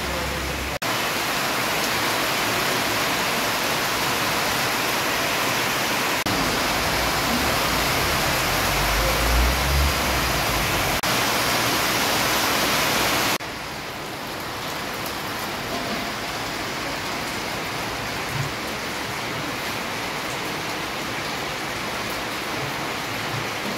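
Heavy rain pouring onto a street, a steady hiss that jumps abruptly in level about a second in and again about halfway through, softer over the second half. A brief low rumble sounds near the middle.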